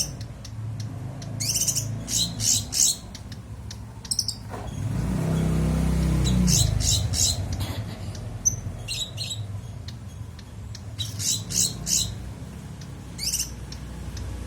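A songbird giving rapid, clipped high chirps in tight bursts every second or two. A low hum swells and fades about a third of the way through.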